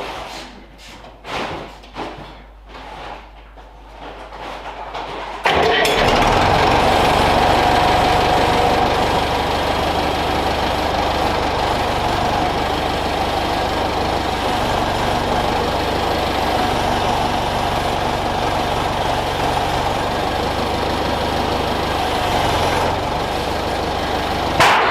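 A few scattered knocks, then a tractor's diesel engine starts abruptly about five and a half seconds in and runs steadily at idle. There is a single sharp knock near the end.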